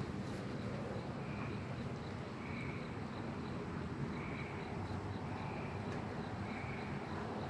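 Steady low buzz of honeybees around an open hive. Over it, a short high chirp repeats roughly once a second, with faint quick ticking about four times a second.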